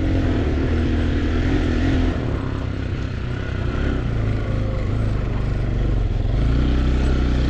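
Motorcycle engine running under load on a rough dirt track, its pitch shifting about two seconds in and again near the end, over a steady noisy rush.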